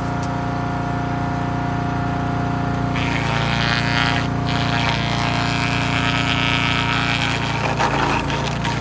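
Wood chipper-shredder's 7HP 212cc four-stroke OHV gas engine running steadily. From about three seconds in, a loud rough grinding noise joins as branches are chipped, breaking into uneven bursts near the end.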